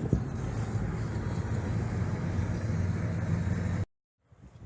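Steady car engine and road noise, a low rumble that cuts off abruptly near the end.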